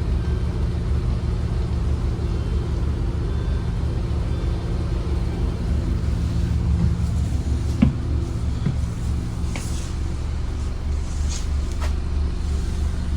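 Scania N230UD Omnicity bus's diesel engine running steadily with a low, pulsing drone. A few light clicks and one sharp knock sound about eight seconds in.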